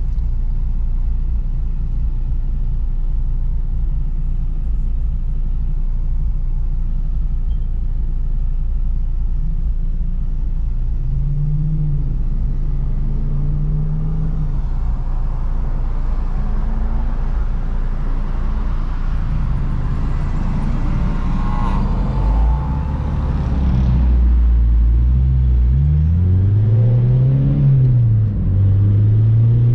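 Car driving, heard with steady engine and road rumble. From about the middle on, the engine note rises and falls several times as the car accelerates and eases off, loudest near the end.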